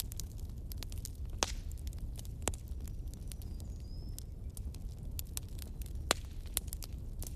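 Wood fire in a fireplace crackling, with irregular sharp pops, the loudest about one and a half, two and a half and six seconds in, over a low steady rumble of the flames.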